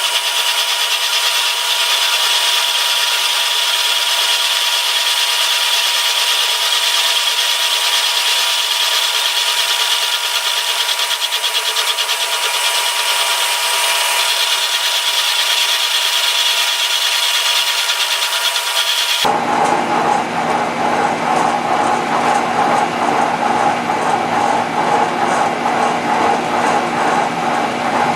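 Milling machine taking a slow cleanup cut across the vise jaw: a steady scraping hiss with a steady whine. About 19 seconds in, the sound changes abruptly to a fuller, lower machine running.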